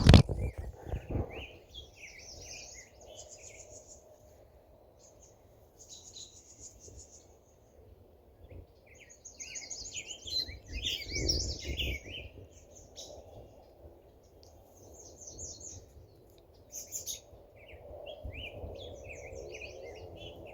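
Songbirds singing and chirping in short bursts, over a steady low rumble of distant traffic. A sharp knock sounds right at the start.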